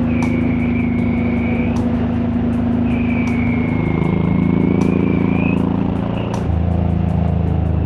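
Honda VTX1800 V-twin cruiser engine and exhaust running under way, with a steady loud note. Its pitch shifts about four seconds in, and again after a brief dip in loudness a little after six seconds.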